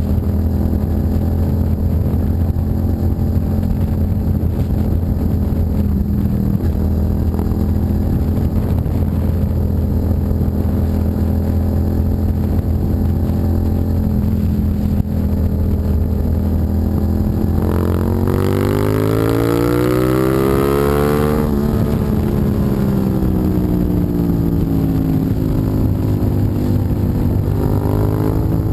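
Suzuki SV650's 645 cc V-twin running through a custom exhaust. It holds a steady pitch for most of the stretch, then about two-thirds of the way in revs up sharply for about three seconds, drops off suddenly, and winds down gradually, picking up slightly near the end.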